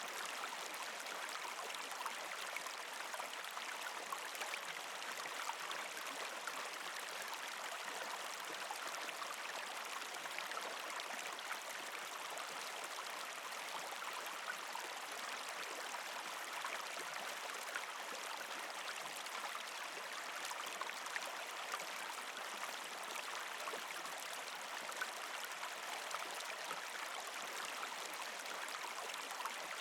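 Shallow creek water flowing and gurgling over rocks between ice shelves, a steady trickling rush with many small splashes and no pause.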